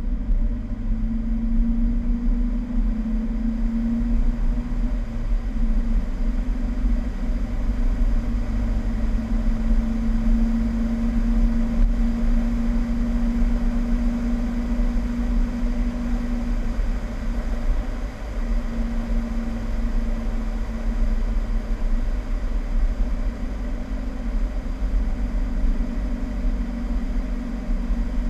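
Fiat 1200 Spyder's four-cylinder engine running steadily as the car drives, picked up by a camera on the bonnet, with heavy low wind rumble on the microphone. The engine note shifts about five seconds in and dips briefly about eighteen seconds in.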